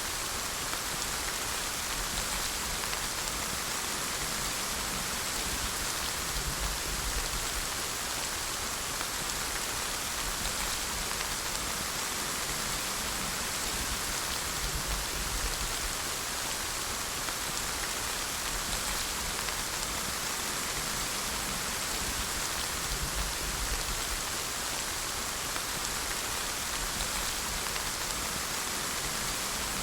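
Steady rain falling, an even hiss of countless drops hitting a surface with no change in strength.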